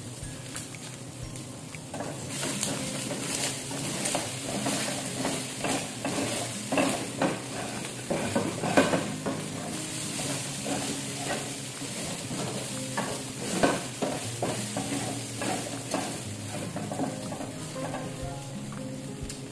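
Chopped hot dog and ham sizzling in a stainless steel frying pan on a gas burner, stirred and turned with a spatula that scrapes and taps against the pan; the stirring picks up about two seconds in.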